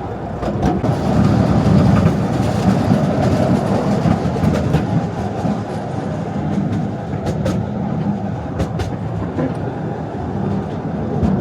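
Narrow-gauge mountain tourist train running along its track, a steady rumble of wheels on rail with scattered short clicks.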